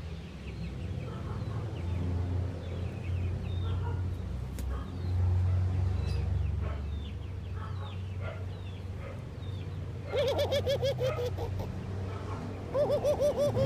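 Ringneck doves calling, with two quick runs of short rolling pulsed notes, about ten seconds in and again near the end. Faint high chirps of small birds and a low steady rumble fill the rest.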